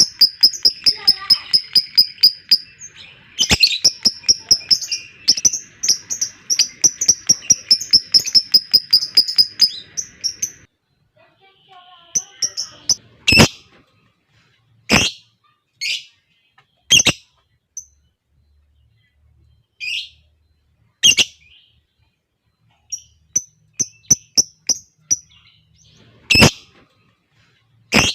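Lovebirds calling: a long, fast chattering trill of high chirps (the 'ngekek panjang' long chatter) for about the first ten seconds, then single sharp chirps every second or two.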